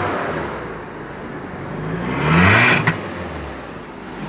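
VW Passat B5's 1.8-litre four-cylinder petrol engine revved once: the engine note climbs to a peak about two and a half seconds in and falls back toward idle, with a sharp click just after the peak. It runs evenly with no hydraulic lifter knock.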